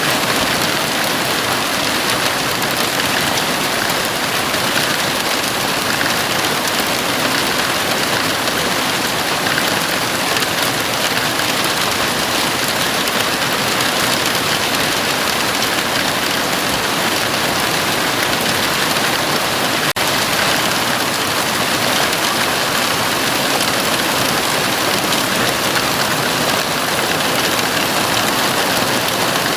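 Heavy rain falling steadily on a house roof, a dense, even hiss of drops.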